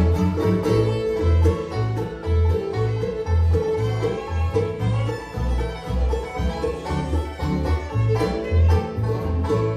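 Bluegrass band playing an instrumental passage with no singing: banjo and guitar picking over a steady line of bass notes.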